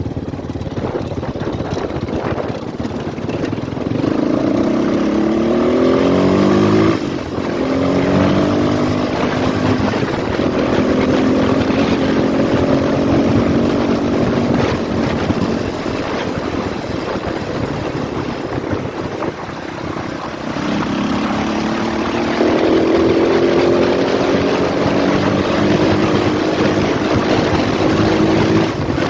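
Four-stroke 250 cc enduro motorcycle engine (RVM CZ 250T) being ridden, the engine pitch climbing for a few seconds, dropping sharply about seven seconds in, then running steadily and climbing again in the last third, with wind noise over it.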